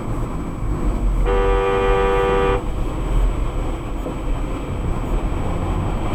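A car horn blares in one steady blast of about a second and a half, two notes sounding together, over continuous road and engine rumble from a car driving on the freeway.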